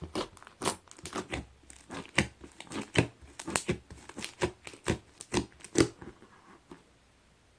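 Foam slime, slime mixed with small foam beads, being squeezed and pressed by hand, giving irregular crunchy crackles and pops that stop near the end.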